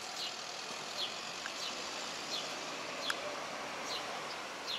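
A small bird chirping over and over, a short falling note about every three-quarters of a second, over a steady background hiss.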